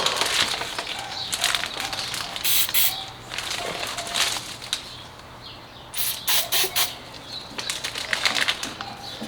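Aerosol can of silicone spray fired in several short hissing bursts, two a few seconds in and a quicker run of three or four near the middle, amid clicks and knocks of parts being handled.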